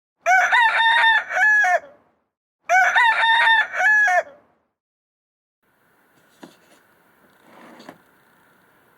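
A rooster crowing twice, each crow about two seconds long and the two alike in shape. Faint clicks and a faint steady tone follow.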